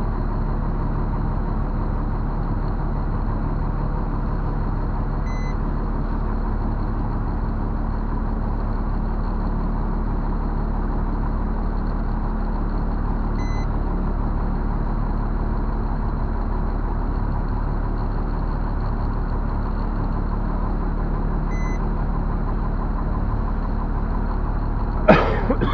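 A large truck engine idling steadily, with faint short beeps about every eight seconds. Near the end comes a brief squeal that sweeps up in pitch and drops back down.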